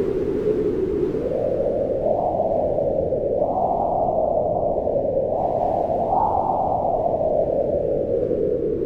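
Wind blowing steadily, a deep rushing noise that slowly swells and eases in gusts, strongest around two, three and a half, and six seconds in.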